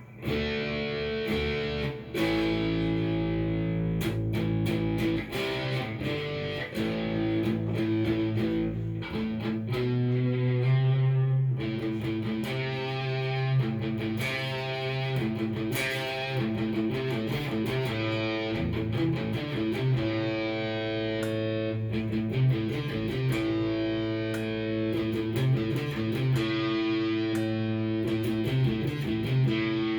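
Cort S-series electric guitar played through a Fender amp, a run of picked chords and ringing single notes that starts abruptly.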